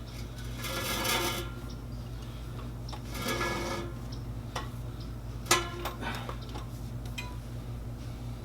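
Hand work on an exhaust install: two rasping scrapes, then a sharp click about halfway through and a few lighter clicks after it, over a steady low hum.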